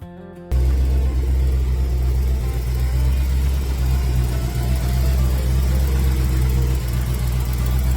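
1965 Ford Galaxie's 390 cubic-inch big-block V8 idling steadily with a deep low rumble, cutting in abruptly about half a second in.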